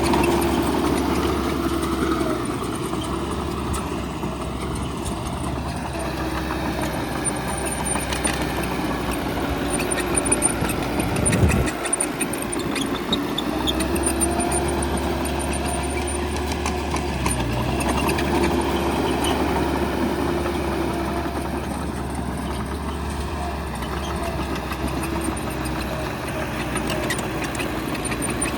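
Heavy diesel engine of a bulldozer running steadily at work, with light metallic clicking and a loud knock about a third of the way in, after which the engine note briefly drops.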